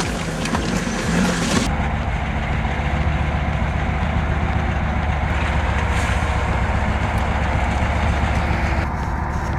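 Heavy logging truck's engine running steadily under load off-road, a low, even drone. For about the first second and a half there is a noisier rush of sound over it.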